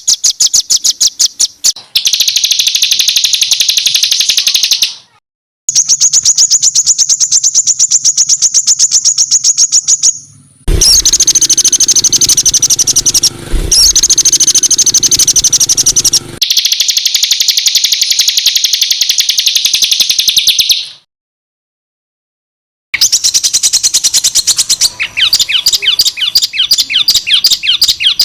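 Songbird song: loud, high-pitched runs of rapid-fire repeated notes, a harsh chattering trill, played in several separate stretches with sudden cuts between them and a silence of about two seconds near the end.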